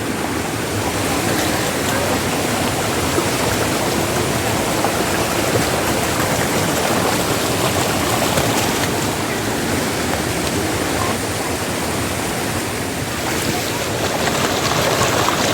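Steady rushing water, an even unbroken hiss and rush.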